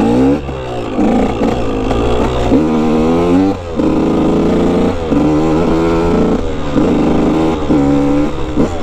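Dirt bike engine being ridden, its pitch climbing and dropping back several times with short breaks between, as the rider goes up through the gears.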